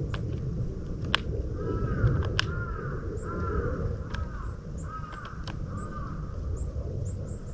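A crow cawing, a run of about six hoarse calls, with a few sharp clicks and faint high chirps of small birds.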